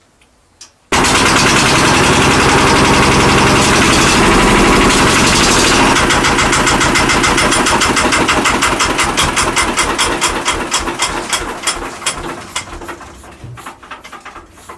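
Lister SR1 single-cylinder air-cooled diesel engine starts abruptly about a second in and runs loud and steady. After about five seconds its firing beats grow slower and quieter, and it runs down to a stop near the end as the engine is shut off.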